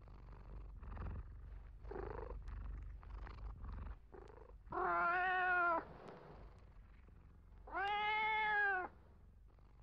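A domestic cat purring for the first few seconds, then two long meows, each about a second long and about three seconds apart.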